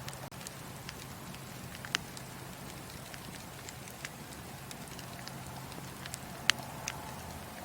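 Wood fire crackling in a fireplace: a steady soft hiss with scattered sharp pops, the loudest about six and a half seconds in.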